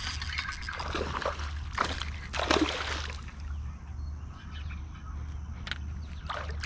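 Water splashing and sloshing in a few short bursts, with a steady low hum underneath.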